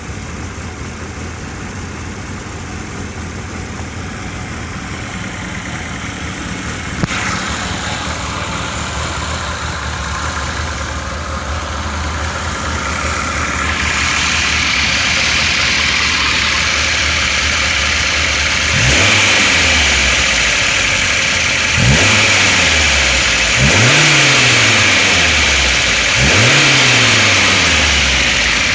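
VAZ inline-four engine with a sport camshaft idling steadily, then blipped four times in its last ten seconds, the revs rising quickly and falling back to idle each time.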